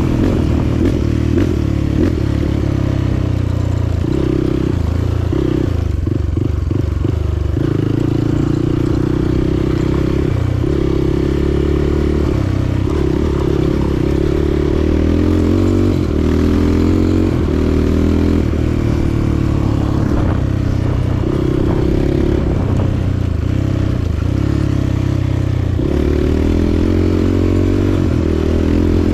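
Motorcycle engine running under way, its note stepping up and down as the throttle opens and closes, with road and wind noise.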